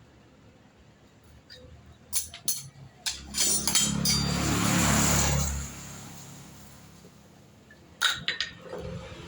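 Metal parts and tools clinking during motorcycle shock absorber work, with a louder rushing noise lasting about two and a half seconds in the middle.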